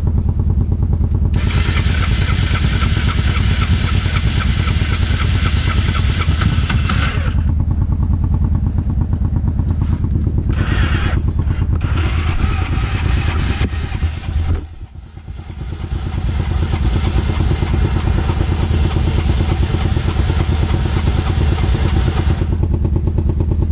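Off-road vehicle engine running steadily with an even low pulse, dipping briefly about fifteen seconds in. A loud hiss comes in over it twice for several seconds at a time.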